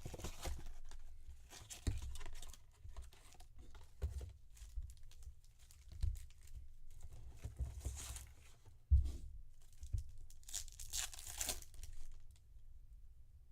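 Trading-card pack wrapper being torn open and crinkled as the cards are handled, with soft thumps of handling on the table; the longest tear comes about 10 to 12 seconds in.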